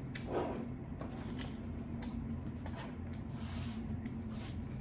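Close-miked eating sounds: soft chewing with a few sharp mouth clicks, over a steady low electrical hum.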